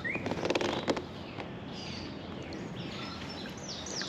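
Birds calling outdoors in short, repeated chirps: rising notes at the start and falling notes near the end. A few light clicks and taps come in the first second.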